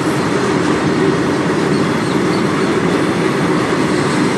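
Open-top freight wagons of a goods train passing close by: a steady, even noise of wheels and wagons running over the rails.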